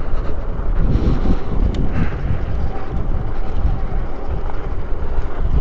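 Strong gusty wind buffeting the microphone while riding, a heavy low rumble that rises and falls throughout.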